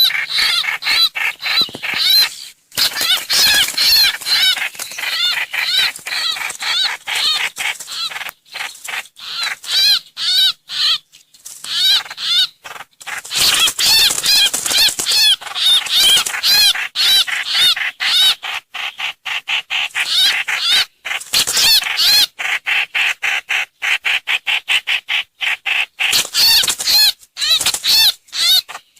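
Recorded lure calls of the trao trảo, also called hoành hoạch: a fast, unbroken series of short, arched call notes, several a second, with only brief pauses.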